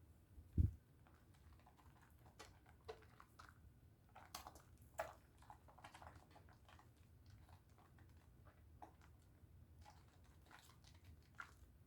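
Pink Dove soap bar being lathered in wet hands: faint, scattered small squishing and crackling clicks, with a low thump about half a second in.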